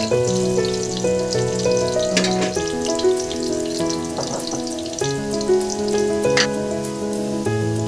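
Sliced onions sizzling and crackling in hot oil in a steel pot, under background instrumental music with held notes.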